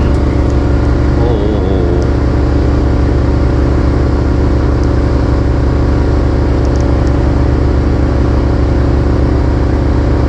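Engine of a small Yamaha fishing boat running steadily under way: a constant low drone with wind and water noise over it.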